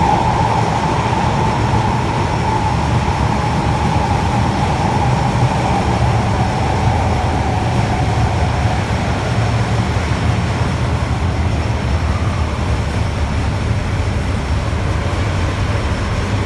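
Running noise inside an Osaka Metro 80 series linear-motor subway car: a steady rumble, with the whine of its Hitachi IGBT inverter slowly falling in pitch and fading out about halfway through.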